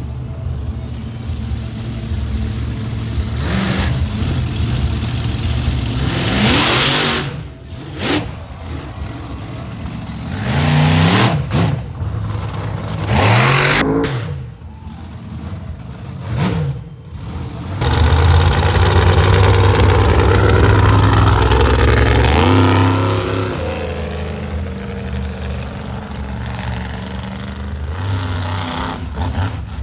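Monster truck engine revving hard again and again, its pitch climbing and falling with each blip of the throttle. It holds a long loud full-throttle stretch about two-thirds of the way in, then settles to a lower, steadier running note.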